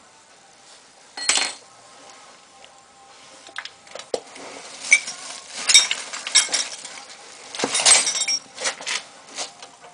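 Metal tools and parts clinking and clanking in a scatter of sharp knocks, one about a second in and more of them through the second half, as brake work is done on a car.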